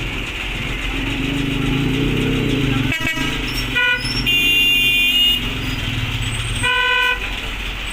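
Vehicle horns sounding in stopped traffic over the low running of truck engines. There are short toots about three and four seconds in, a longer, higher horn just after, and another toot about a second before the end.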